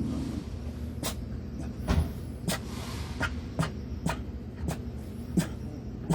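Footsteps at a walking pace, about two a second, over a steady low rumble.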